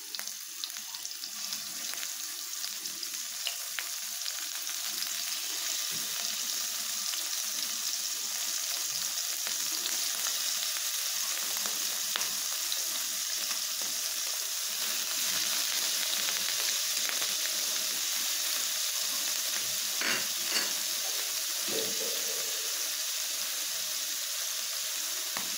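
Paneer cubes frying in hot oil in a pan, a steady sizzle that builds slowly. Near the end a spoon stirs them, with a few short knocks in the pan.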